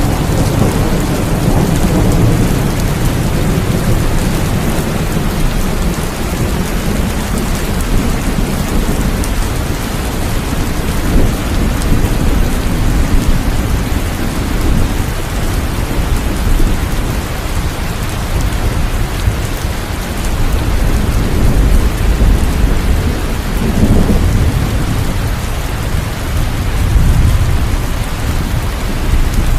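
Steady heavy rain with rolling thunder. Low rumbles swell near the start, at about twenty seconds and again near the end.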